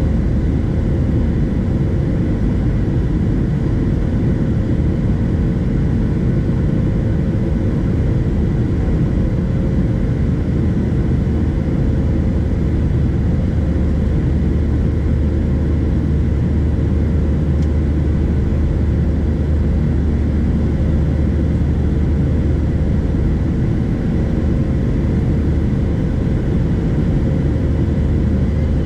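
Steady cabin drone of a Boeing 737-700 with CFM56 turbofan engines: engine and airflow noise with a deep low hum and a faint steady tone, unchanging throughout.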